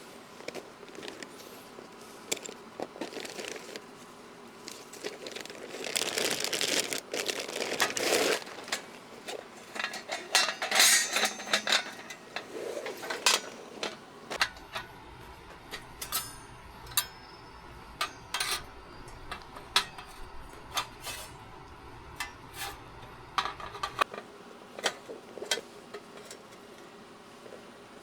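Dishes and utensils being handled, with scattered clinks and clatters and a couple of longer noisy stretches of handling.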